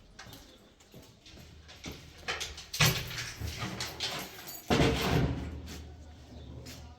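Knocks, scrapes and clattering, with two louder hits about three and five seconds in.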